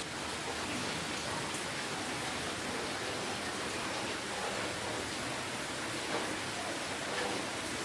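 Steady rainfall, an even hiss of many drops with a few individual drops faintly standing out.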